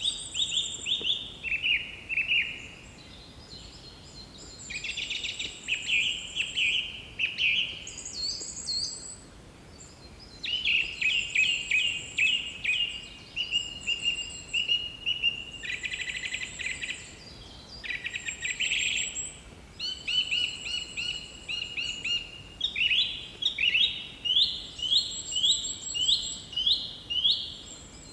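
Songbird singing: phrases of rapid, high chirping notes in bursts a second or two long, with short pauses between, ending in a run of loud repeated down-slurred notes.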